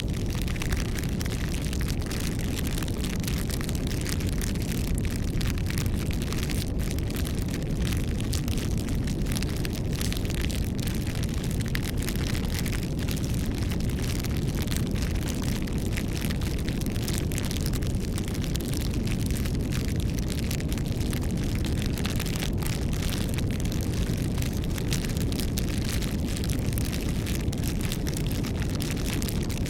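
Campfire burning: a steady low rumble of flames with constant small crackles and pops from the burning wood.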